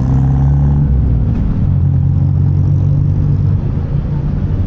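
Motorcycle riding in traffic, heard through a lavalier mic inside a half-face helmet with the visor closed: a loud steady low engine hum and road noise. The engine tones shift in pitch about a second in and again near the end.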